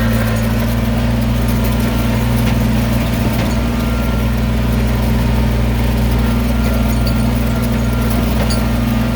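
An engine idling steadily at a constant low pitch, with no revving.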